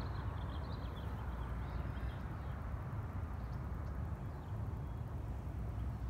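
Faint bird chirps, mostly in the first couple of seconds, over a steady low rumble.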